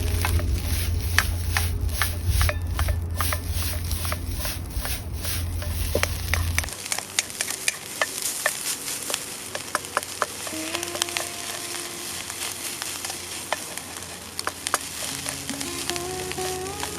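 Fried rice sizzling in a stir-fry pan over a campfire, with the spatula's frequent clicks and scrapes against the pan as it is stirred. Background music comes in during the second half.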